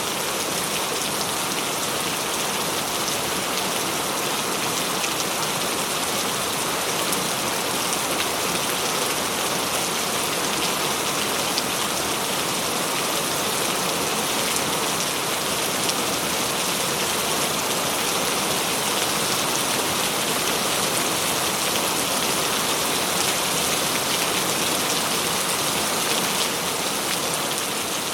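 Steady heavy rain falling on a surface, a dense even hiss with fine drop ticks throughout.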